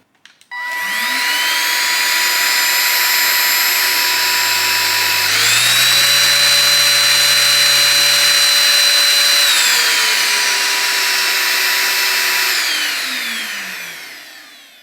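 Ambiano 3-in-1 cordless stick vacuum's motor switched on, whining up to speed and running steadily on its eco setting. About five seconds in it steps up to a higher, louder pitch on maximum, drops back to eco about four seconds later, then is switched off and winds down near the end.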